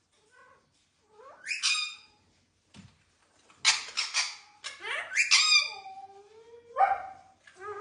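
Indian ringneck parakeet screeching: a run of loud, harsh calls beginning about a second and a half in, with a few sliding, drawn-out notes among them.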